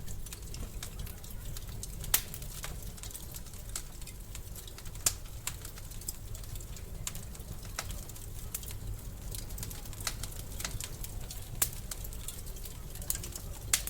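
Wood fire crackling in a fireplace: irregular sharp snaps and pops over a low steady rumble, with a few louder pops standing out.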